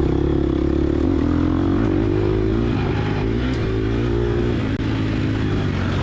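Gas Gas EX250F dirt bike's 250 cc four-stroke single-cylinder engine running hard under race throttle, its pitch rising and falling as the rider works the throttle through the gears.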